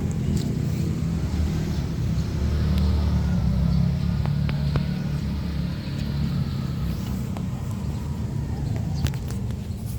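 A car engine running steadily at idle, a low rumble, with a few faint clicks over it.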